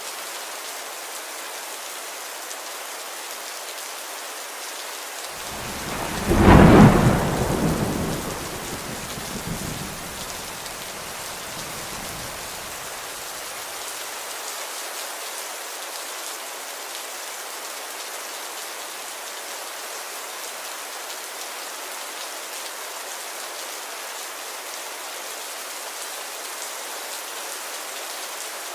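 Steady rain falling, with one thunderclap about six seconds in that rumbles away over several seconds.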